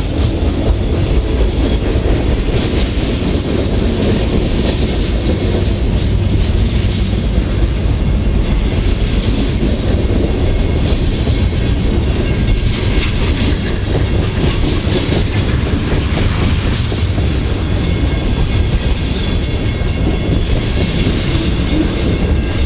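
BNSF manifest freight train passing at close range: a steady rumble of wheels on rail with continual rapid clicking and clatter from the cars.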